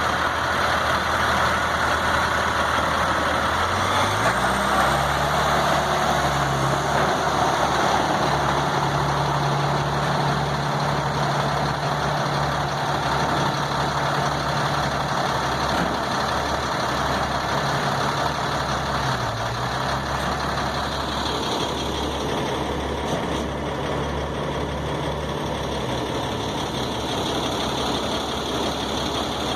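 Heavy engine running, stepping up to a higher speed about four seconds in, holding there with a brief dip, then dropping back to idle near the end.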